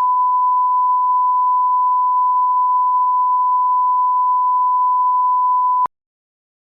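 Steady pure reference tone from an edited video's leader, held unbroken at one pitch and cutting off suddenly about six seconds in.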